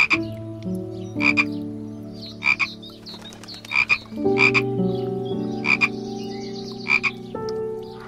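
A frog croaking: short sharp croaks about once a second or so, irregularly spaced, some coming in quick pairs.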